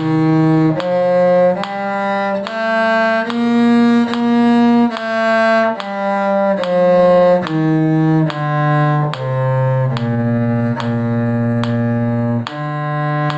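Bowed strings, including a cello on the lowest notes, playing a B-flat major scale and arpeggio in even, sustained notes about three-quarters of a second each. A metronome clicks on every beat.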